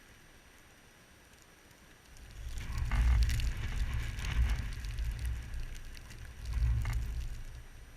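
Blizzard wind gusts buffeting the microphone: a low rumble with crackling that rises about two seconds in, swells twice, then dies away near the end.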